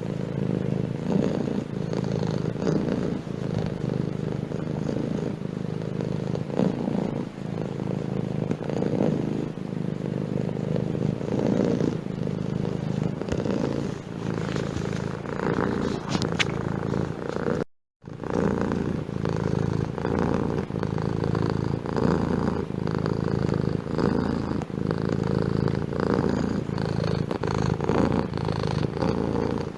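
Domestic cat purring steadily close to the microphone, a continuous low, pulsing purr. It cuts out completely for a split second about two-thirds of the way through.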